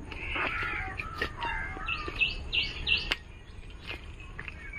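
Small birds chirping, with a run of about five quick high notes about halfway through, and a few sharp clicks.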